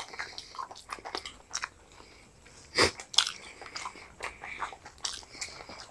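Two people biting and chewing fried chicken lollipops up close, a run of irregular crisp clicks and mouth noises, the loudest just before three seconds in.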